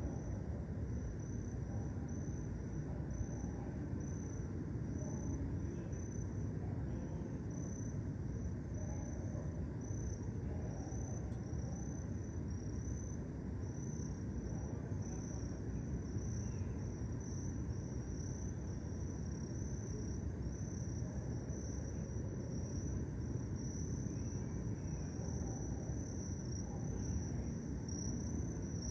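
Crickets chirping in a continuous, rapidly pulsing high trill, over a steady low rumble.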